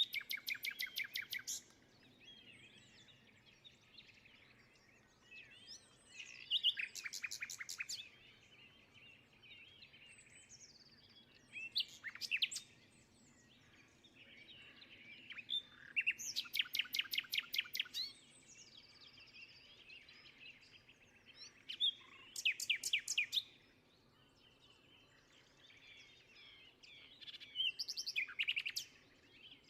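Songbirds singing. One bird repeats a fast, dry trill about every five or six seconds, each lasting one to two seconds, while other birds chirp faintly between the trills.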